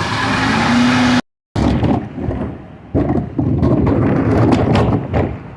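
Recycling truck working: engine noise with a low whine that steps up slightly, then, after the sound briefly cuts out, a few seconds of loud, irregular clattering crashes as a load of recyclables is tipped into the truck's hopper.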